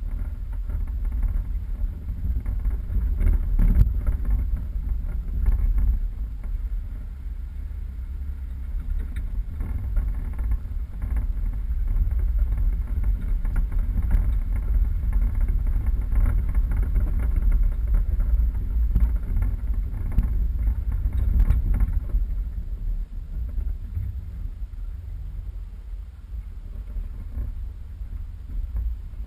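Steady low rumble of a 4x4 driving off road, with a few short knocks.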